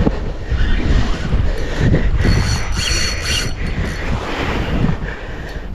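Strong wind buffeting the microphone in gusts, with a brief high-pitched whirring about two to three and a half seconds in.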